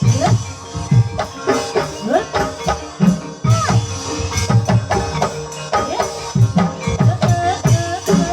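Gamelan music accompanying an ebeg (kuda kepang) dance, with a busy rhythm of drum strokes over held pitched tones.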